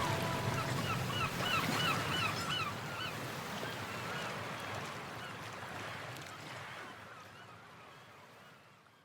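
The outro of an electronic music track fading away into a wash of sea-like noise and a string of quick bird cries, each call rising and falling in pitch, several a second. The cries thin out about seven seconds in, and everything fades to silence near the end.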